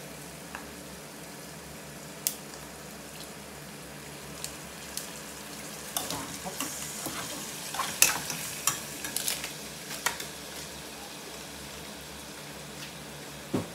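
Pork cubes sizzling steadily in a pot while a spoon stirs them, with sharp clicks and knocks of the spoon against the pot, most of them from about halfway through.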